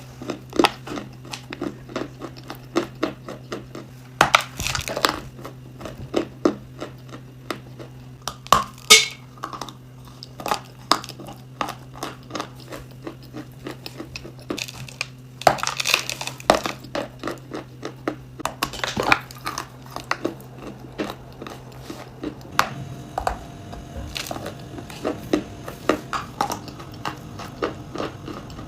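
Close-miked biting and crunchy chewing of a brittle, crumbly edible, a run of small crackles with several louder crunching bites, over a steady low hum. The background changes about 23 seconds in, as a new clip begins.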